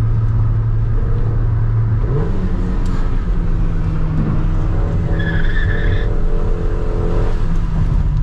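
VW Saveiro pickup's engine heard from inside the cabin, running at a steady drone, then stepping up in pitch about two seconds in and holding there as the pickup accelerates through the curves. About five seconds in, the tyres squeal briefly for about a second.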